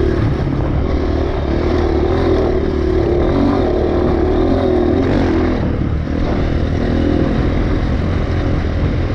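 Dirt bike engine riding hard, its pitch rising and falling again and again as the throttle is worked, over a steady low rumble.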